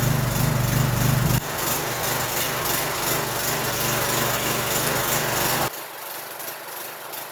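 Craftsman 6.75 hp single-cylinder lawn mower engine running just after starting. Its sound changes about a second and a half in, and it drops off sharply near the end.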